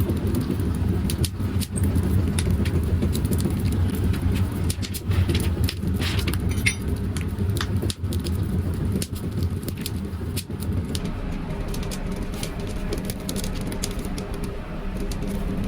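A motor or engine running with a steady low hum, with frequent sharp clicks and knocks over it; the hum eases off about two-thirds of the way through.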